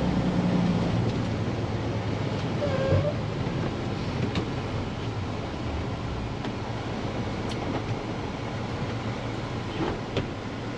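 Diesel truck's engine and road noise, heard from inside the cab while driving: a steady low running sound with a few faint clicks.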